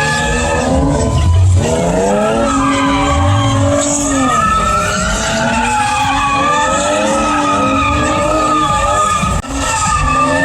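A car spinning its tires at high revs: loud, continuous tire screech over an engine revving up and down.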